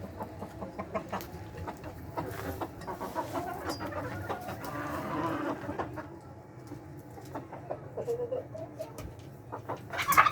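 A flock of layer hens clucking, many short overlapping calls, with a louder burst near the end.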